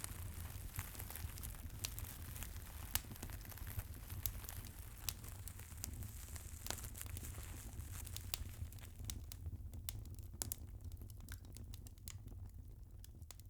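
Fireplace crackling: scattered sharp pops and crackles over a steady low rumble, thinning out and fading near the end.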